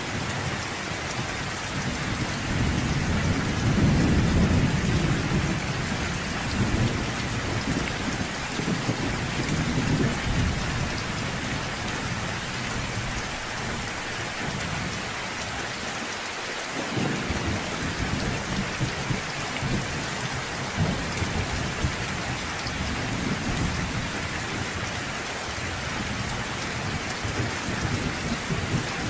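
Steady rain with rolling thunder underneath, the rumble swelling loudest a few seconds in and fading away about halfway through before building again near the end.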